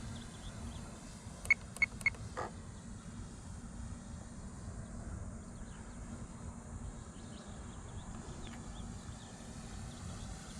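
Faint steady drone of the RC Cessna 182's electric motor and propeller in flight, over low field noise. About a second and a half in come three short, sharp beeps in quick succession, then a softer fourth.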